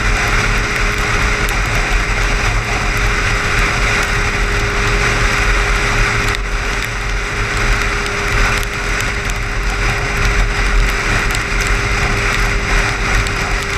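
Car driving at highway speed: steady road and engine noise with a constant hum, and scattered light ticks.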